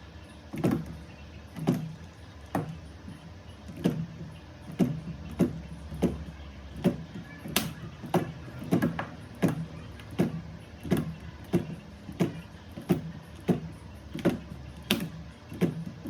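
Battery spot welder firing repeated weld pulses onto nickel strip on 18650 cells: a steady run of sharp snaps, about one to two a second, each with a brief low buzz.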